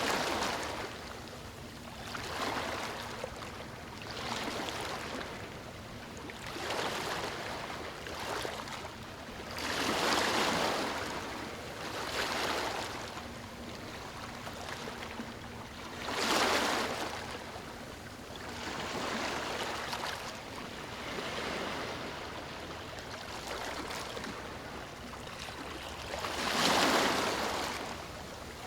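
Ocean waves breaking on a beach, a rush of surf swelling and fading every few seconds, with the biggest breakers about ten seconds in, around sixteen seconds and near the end.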